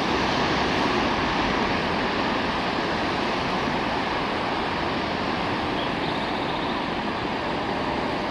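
Electric commuter train running along the tracks, a steady rushing rumble that fades slightly as it goes.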